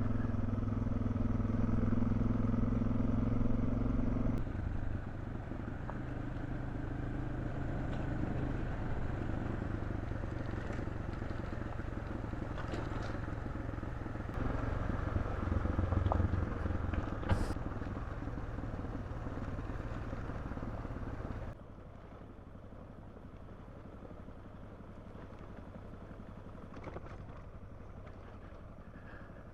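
Suzuki DR650 single-cylinder engine running as the motorcycle rides along, a steady engine note at first, then rougher and softer. About three-quarters of the way through it drops suddenly to a much quieter level.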